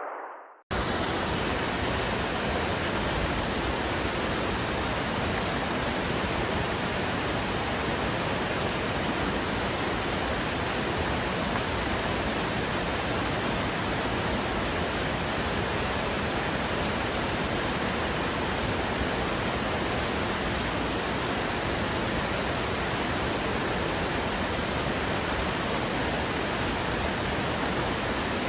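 Steady rushing noise of a waterfall, even and unbroken, starting abruptly under a second in after a brief dropout.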